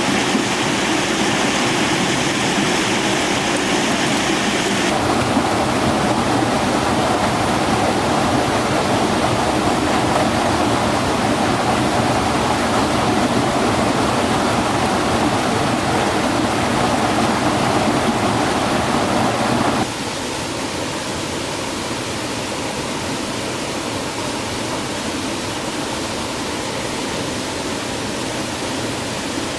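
Steady rushing of stream or waterfall water. Its tone shifts abruptly about 5 seconds in, and about 20 seconds in it becomes somewhat quieter.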